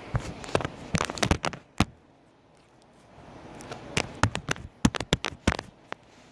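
Homemade slime being squeezed and pressed by hand, giving off quick sharp pops and clicks as air pockets burst, in two short bursts with a pause between.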